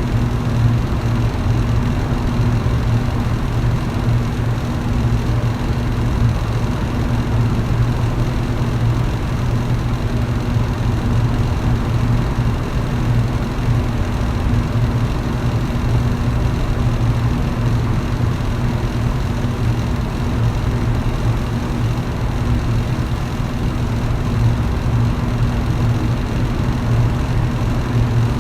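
Electric fan running steadily: an even whoosh of air with a constant low motor hum.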